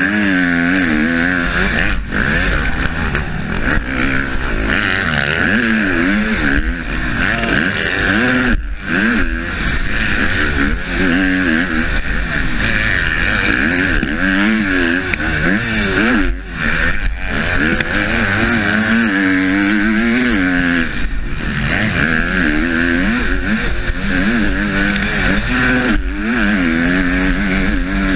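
Husqvarna motocross bike engine heard from the rider's helmet, revving up and down again and again as it is worked hard around the track, with brief cuts in the engine note about a third and about two thirds of the way through. Steady wind rush runs under it.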